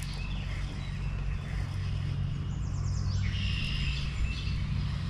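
Small birds chirping over a steady low hum, with a quick falling run of notes a little past halfway followed by a brief held note.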